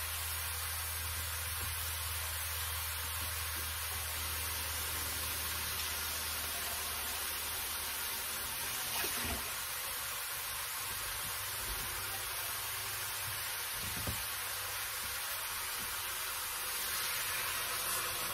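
Steak, onion and green pepper sizzling steadily in a pan on the stove, a constant hiss. Near the end water is poured into the pan and the sizzle swells briefly.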